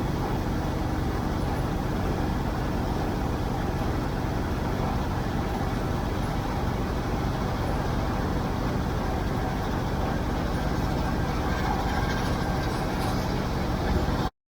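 Tractor engine running steadily under way, a constant low mechanical drone with wind and road noise; the sound cuts off abruptly near the end.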